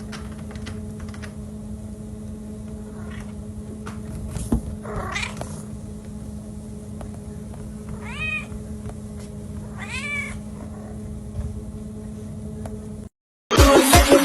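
A cat meowing about three times, in short arching calls, over a steady hum. Near the end the sound cuts to loud, upbeat music.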